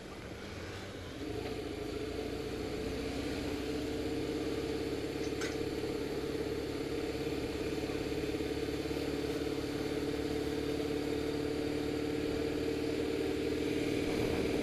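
Motorcycle engine running steadily at low road speed, heard from the rider's seat; the engine note steps up in level about a second in and then holds.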